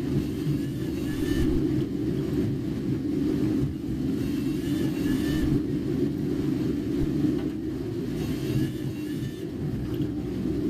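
Car being driven, heard from inside the cabin: a steady low road and engine rumble, with a higher hiss that swells and fades about every three to four seconds.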